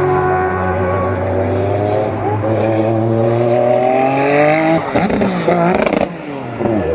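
Racing car engine holding a steady note, then climbing in pitch under hard acceleration for about three seconds. It drops abruptly near the end, with a wavering, crackling stretch before settling at a lower note.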